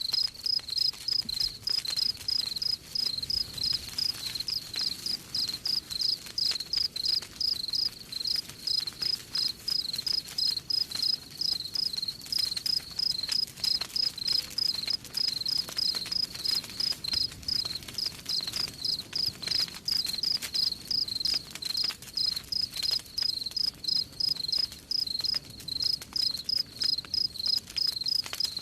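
Cricket chirping steadily, about three chirps a second, over faint crackling of a campfire.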